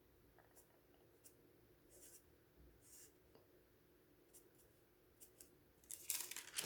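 Near silence with faint, scattered small ticks, then a short burst of rustling about six seconds in.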